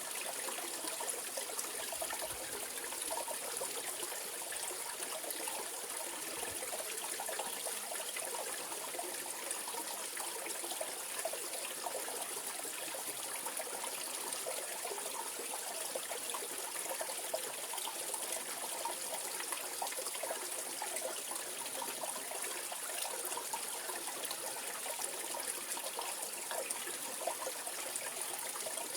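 Mountain valley stream flowing over rocks, a steady rushing and babbling of water.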